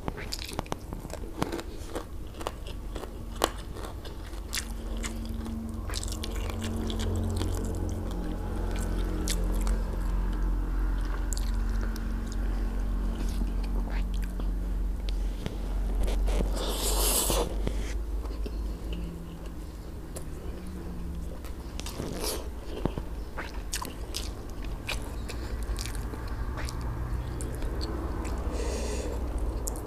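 Close-up eating sounds of a person chewing a mouthful of rice and grilled fish, with many small wet mouth clicks and smacks. A short louder rush of noise comes a little past the middle.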